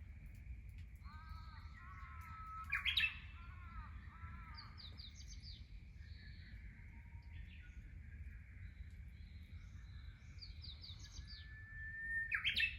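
Songbirds singing: twice a louder bird holds a clear whistle that breaks into a quick rising flourish, about three seconds in and again near the end, while other birds chirp in short repeated phrases.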